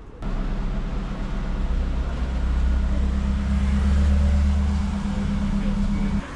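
A road vehicle's engine running with a steady low hum, cutting in suddenly at the start and cutting out suddenly near the end.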